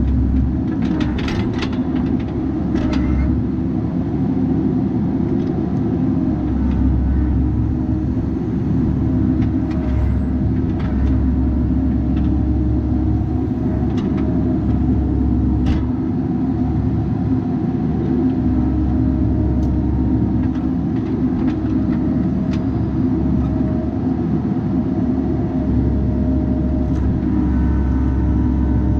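Bobcat 337G mini excavator's diesel engine running steadily under hydraulic work, its deep drone swelling and easing every few seconds as the load changes, with scattered short clicks and knocks.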